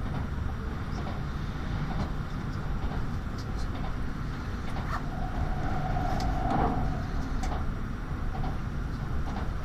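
Cabin noise of a Tokaido Shinkansen train under way: a steady low rumble with light scattered clicks, and a brief whine about midway.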